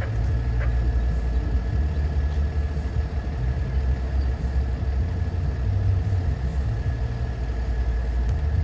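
Diesel locomotive of a stopped freight train idling: a steady low rumble that pulses slightly, with a faint steady whine above it.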